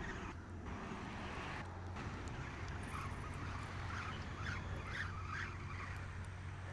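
A steady low hum, with three or four short chirping bird calls about four to five and a half seconds in.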